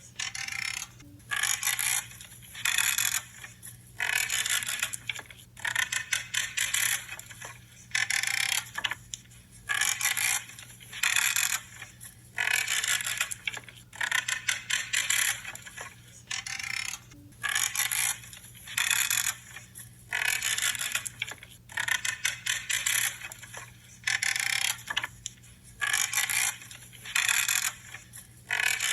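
Pruning shears cutting through branches, each cut a crunching creak, repeated about once every second or so.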